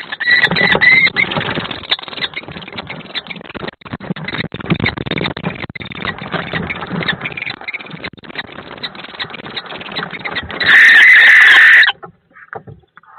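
A kestrel and a barn owl fighting inside a wooden nest box: constant scuffling, wing-flapping and scratching with many sharp knocks, and harsh screeching. There is a short screech in the first second and a much louder harsh screech lasting about a second, around eleven seconds in.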